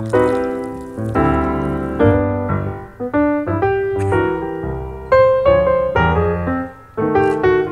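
Background piano music: chords and melody notes struck about every half second, each ringing and fading.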